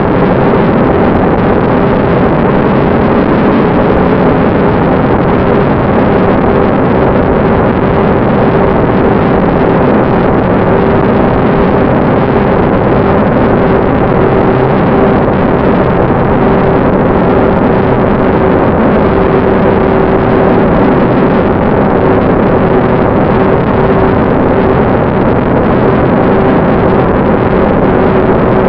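Steady in-flight noise from aboard a Bynary 1200 FPV model plane: an electric motor's even hum over loud wind rush, with no change in pitch or level.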